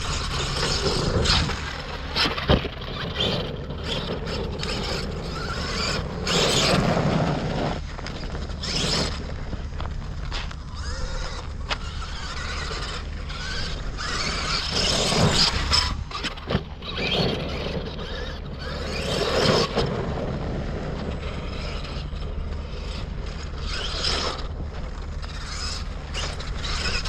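A large brushless RC truck (Arrma Kraton with a Leopard 700KV motor on a Hobbywing Max5 G2 controller) driving in repeated throttle bursts. Its motor and drivetrain whine and its tyres scrape over loose ground, surging and dropping every few seconds.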